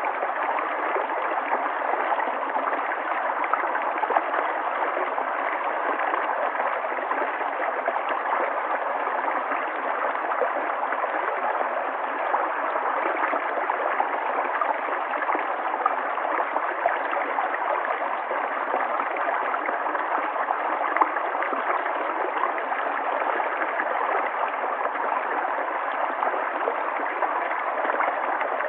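River water flowing and gurgling over stones, a steady rushing babble with small splashes throughout.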